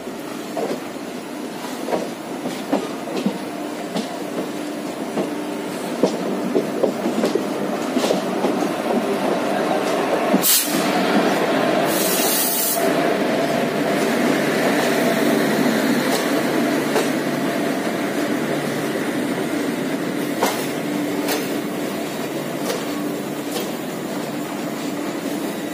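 Passenger coach of an Indian Railways express running slowly through a yard, heard from an open doorway: steady wheel-and-rail rumble with a low hum and irregular clicks as the wheels cross rail joints and points. Two brief loud hisses come about ten and a half and twelve seconds in.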